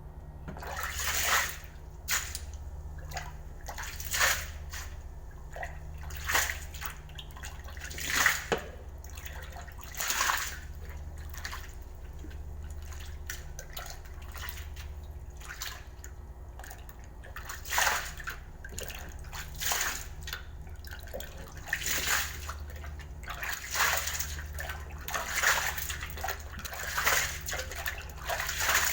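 Water splashing in short surges, roughly every two seconds and more irregular near the end, over a steady low machine hum.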